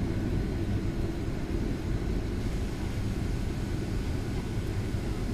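Cabin noise inside a Boeing 757-200 airliner: a steady low rumble with a few faint, thin whining tones above it.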